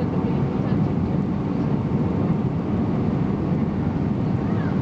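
Steady cabin noise inside an Airbus A320 in flight: engine and airflow noise as an even, low rumble with no changes.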